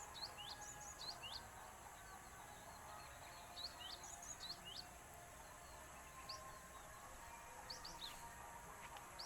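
Small birds chirping faintly: short, quick notes that slide downward, scattered irregularly over a steady background hum.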